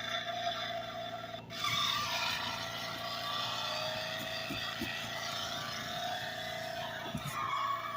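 Toy Road Rippers Bigfoot monster truck playing a recorded engine sound effect through its small built-in speaker. The sound changes abruptly about a second and a half in.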